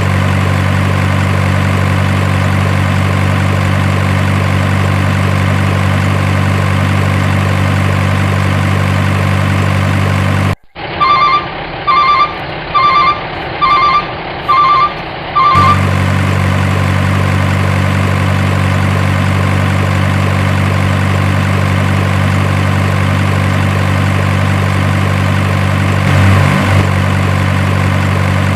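Truck engine idling steadily with a low hum. About a third of the way through the hum drops out and six evenly spaced beeps sound, about one a second, then the idle comes back.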